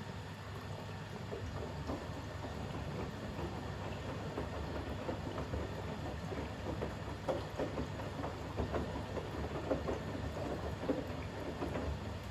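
Bosch WAX32GH1 front-loading washing machine in its final rinse, the drum tumbling a wet towel load. Irregular water sloshes and splashes, busier in the second half, sound over a steady low hum.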